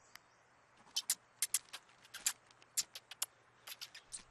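Cartoon sound effect for a small pet mouse: about a dozen short, sharp, high clicks or squeaks in quick, uneven succession, starting about a second in.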